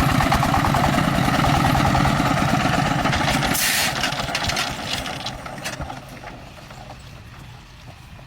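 A farm vehicle's engine running with a fast, even chugging beat; about three and a half seconds in there is a short hiss, and the engine sound then dies away over the next two seconds.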